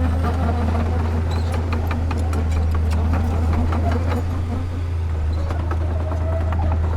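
A heavy construction machine's diesel engine runs steadily under load, with frequent short clanks and rattles of metal and rock.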